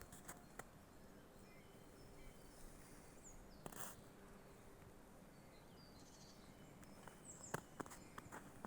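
Faint, scattered bird chirps and short whistled calls in a quiet early-spring forest, over a low steady background hush, with a few soft clicks or steps, the strongest a little under four seconds in.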